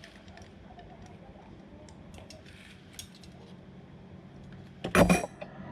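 Small metal parts and tools clinking and being set down, with a louder metallic clatter about five seconds in.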